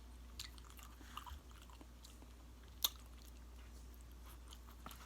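Close-miked chewing and soft mouth sounds of a person eating, with scattered faint clicks and one sharp click near three seconds in.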